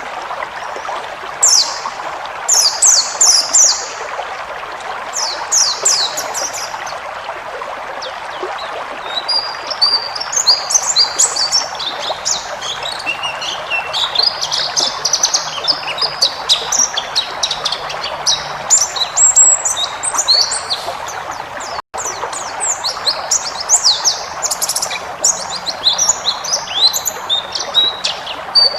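White-eye (pleci) songbird singing: bursts of quick, high, falling chirps at first, then a long unbroken run of rapid, varied twittering. A steady hiss runs underneath, and the sound drops out for a split second about three quarters of the way through.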